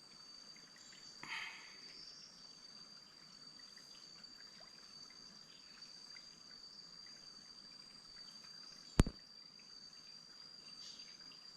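Steady, high-pitched insect trill, with a faint background of forest ambience. A short call sounds about a second in, and a single sharp click or knock comes about nine seconds in.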